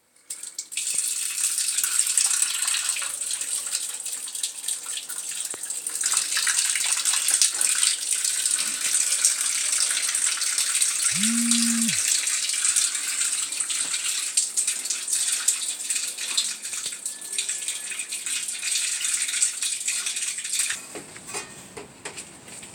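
Water running out of a gas water heater tank through its drain valve as the tank is drained, a steady splashing hiss that starts about a second in and stops near the end.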